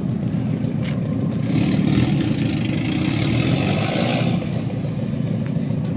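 Turbocharged car engine with an aftermarket exhaust idling with a steady low burble. A loud rushing hiss rises over it about a second and a half in and cuts off suddenly about three seconds later.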